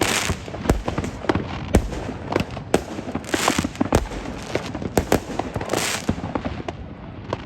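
Fireworks display going off: a rapid, irregular string of sharp bangs, with three bursts of crackling, near the start, midway and about six seconds in.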